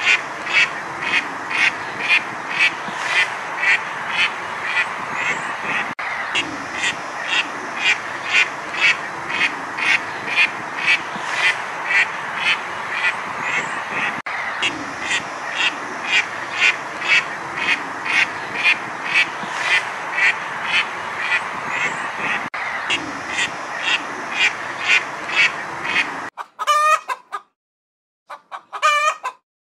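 Mallard ducks quacking in a steady run, about two quacks a second. About 26 seconds in this gives way to a chicken calling a few separate times.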